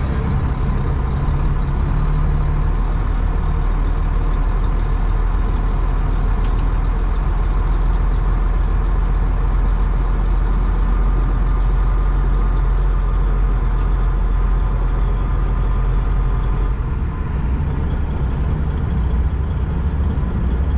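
Semi truck's diesel engine running steadily as the truck moves, with a change in the engine note about three-quarters of the way through.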